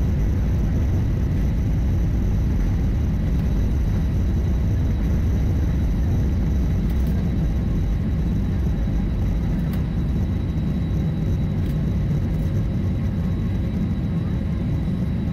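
Steady rumble of an airliner's engines heard from inside the passenger cabin, with a faint steady high whine above it.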